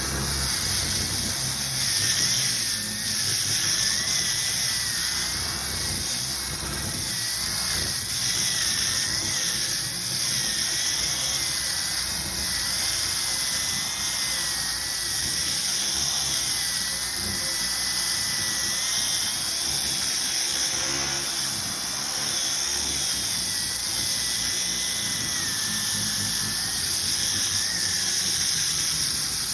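A power tool running steadily with a high whine that wavers slightly in pitch as it works.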